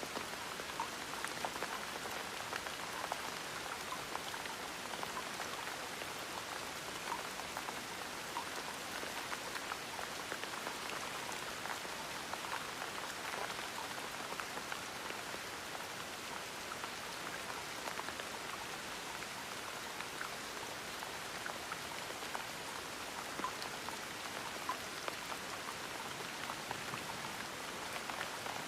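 Steady gentle rain, with many small drops pattering on a surface.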